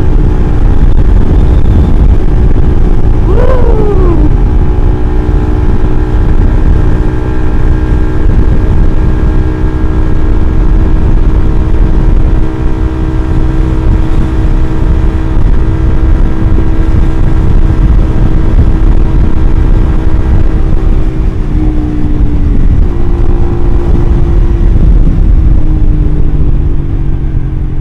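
Suzuki GSX-R150's single-cylinder engine running through an R9 Mugello aftermarket exhaust while riding at a steady speed, with a deep, bassy note and heavy wind rumble. The engine pitch drops slightly about three quarters of the way in, and there is a short falling whine about three and a half seconds in.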